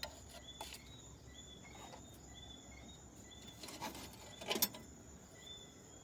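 Faint repeated high chirps of night insects, with a steady high whine underneath. A couple of light knocks about two-thirds of the way through.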